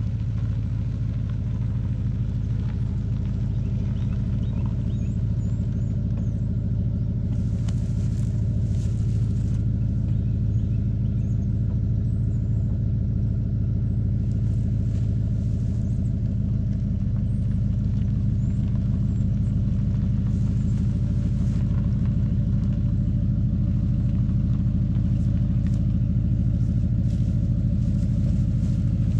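Truck engine idling steadily, a low, even rumble that holds the same pitch throughout.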